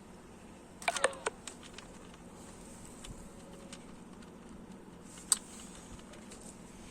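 A quick clatter of small clicks with a short metallic ring about a second in, then one sharp click about five seconds in: parts and tools being handled while ignition parts are refitted on the engine.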